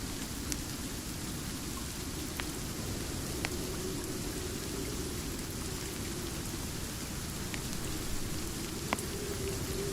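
Steady rain falling, with a sharp fireplace pop every couple of seconds, about five in all.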